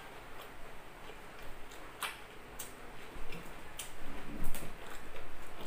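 Close-miked chewing with wet mouth clicks and lip smacks at irregular intervals, louder for a moment past the middle.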